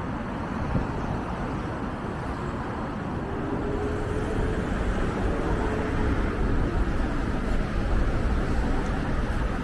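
City street traffic: a steady rumble of passing vehicles, growing slightly louder, with a faint thin tone held for about two seconds near the middle.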